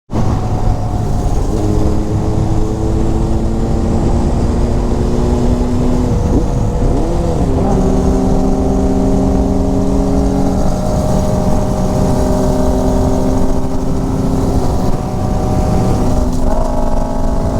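Inline-four sportbike engines running at a steady engine speed while riding, with wind and road noise. The engine note briefly dips and comes back up about six to seven seconds in and again near the end.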